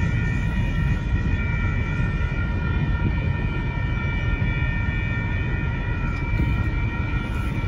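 Union Pacific gravel train rolling past with a steady heavy low rumble, and several steady high-pitched tones ringing over it.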